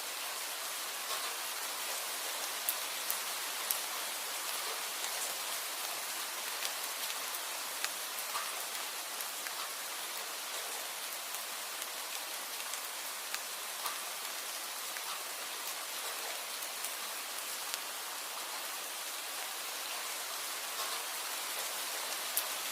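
Steady rain: a dense, even hiss with scattered sharper ticks of single drops landing.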